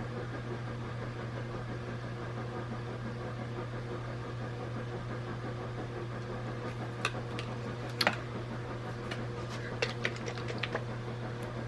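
Steady low electrical hum of a small motor or fan, with a few light clicks and taps in the second half as paint containers are handled.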